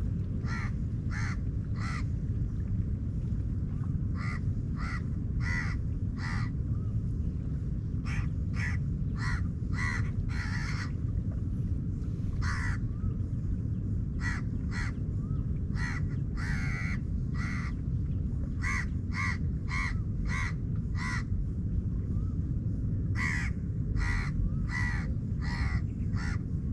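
Crows cawing: short harsh calls repeated in runs of three to six, about two a second, with pauses between runs. A steady low rumble runs beneath them.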